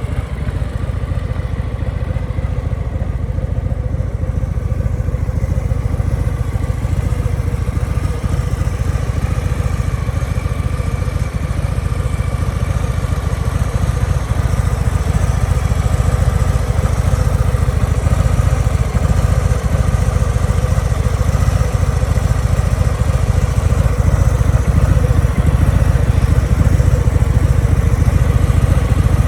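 Harley-Davidson Low Rider S's Milwaukee-Eight 117 V-twin idling steadily through an aftermarket Over Racing exhaust, growing slightly louder toward the end.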